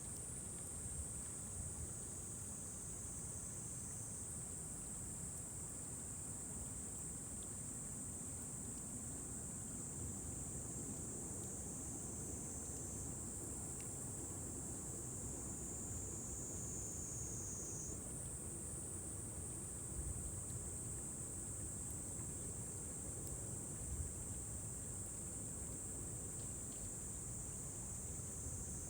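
Steady high-pitched trilling of a chorus of summer insects, over a low, even rumble of background noise, with a few faint crackles from the campfire.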